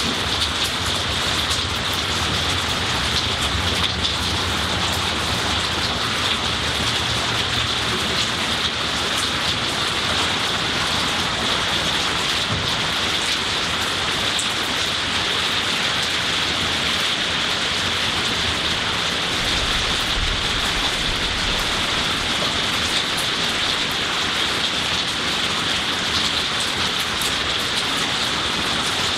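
Steady rain falling on leafy trees and a garden: an even, unbroken hiss of rain.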